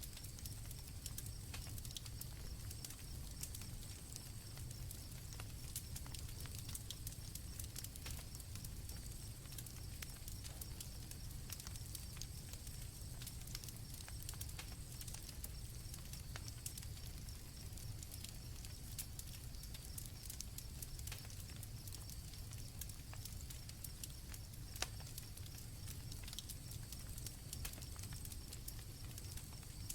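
Night campfire crackling with scattered pops over a low, steady rumble, with crickets chirping steadily in the background. One sharper pop comes near the end.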